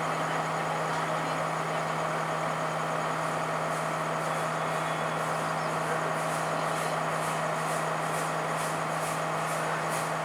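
Diesel train engine running steadily at the platform, with a faint regular clicking of about two a second coming in about four seconds in.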